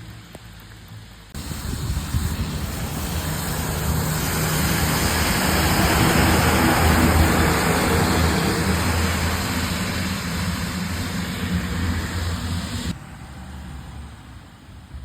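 Garbage truck engine running close by, with a low engine hum under a broad rush. It comes in suddenly just over a second in, grows louder to a peak around the middle, then eases and cuts off sharply near the end.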